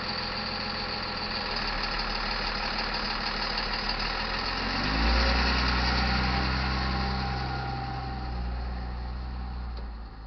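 Freight train rumbling away from the crossing, its rushing noise fading near the end. About five seconds in, a vehicle engine rises in pitch, then runs steadily and louder.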